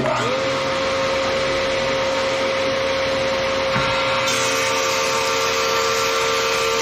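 Grizzly G0815 15-inch planer with a Shelix helical cutterhead switching on and running for a test: a steady whine rises and settles within a fraction of a second over a loud even rush. The sound grows brighter about four seconds in.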